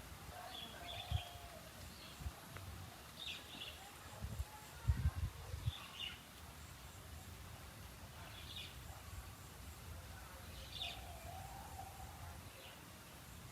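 Outdoor ambience with a bird chirping briefly about every two to three seconds over a steady background hiss, and a few dull low knocks, the loudest cluster about five seconds in.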